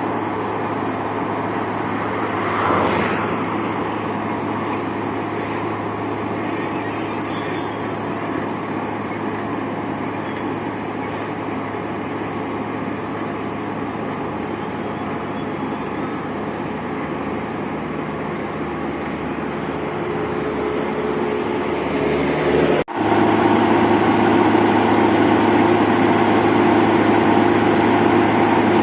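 Wirtgen 2100 DC road milling machine running, a steady heavy engine sound with a brief high-pitched squeal about three seconds in. Near the end it breaks off suddenly and comes back louder and higher.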